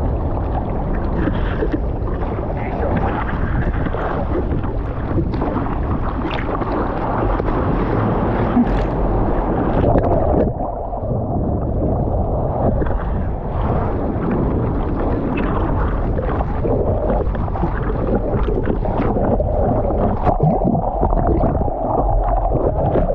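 Ocean water sloshing and splashing in the surf, with wind buffeting the microphone.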